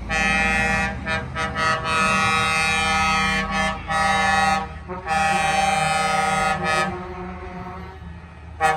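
Truck air horns sounding a series of blasts: long blasts of a second or more broken by several quick short toots, with a lower truck engine running underneath.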